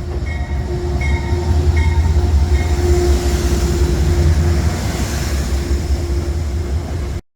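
Metro-North Hudson Line train running: a heavy low rumble with a steady hum, louder through the middle. It cuts off abruptly near the end.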